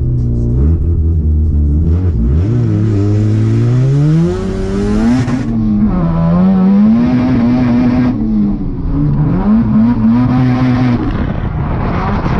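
Drift car's engine heard from inside the cabin, pulling away with its pitch climbing steadily over the first few seconds. It then rises and falls again and again as the throttle is worked through the run.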